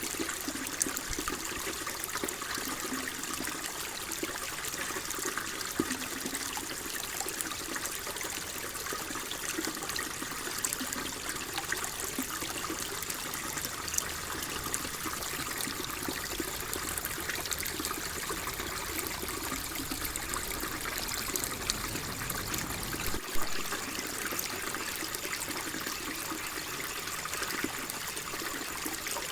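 Water flowing and trickling steadily, a dense stream of small splashes and bubbling. A low rumble joins in under it and cuts off suddenly about 23 seconds in.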